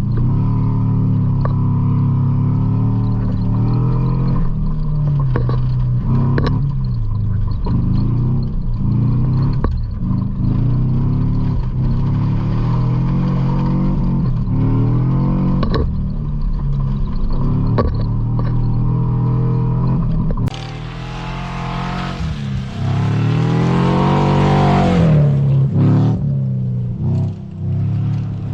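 1976 GM pickup truck's engine revving up and falling back over and over as it is driven hard. About twenty seconds in the sound turns brighter, with a hiss over it and one long rise and fall in engine pitch.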